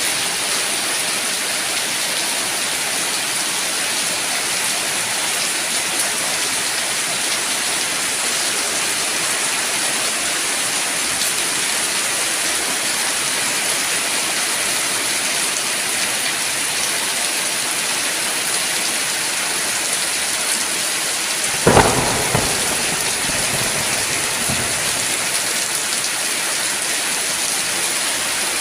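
Steady heavy rain. About three-quarters of the way through, a single sharp crack of thunder rumbles on for a couple of seconds.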